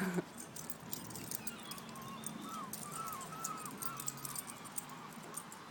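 Pit bull and shepherd puppies playing tug of war with a leash: faint scuffling clicks and soft dog noises, with a string of short squeaks in the middle.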